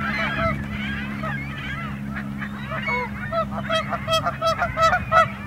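A flock of geese honking: many overlapping calls, which after about three and a half seconds settle into a fast, regular run of honks, several a second.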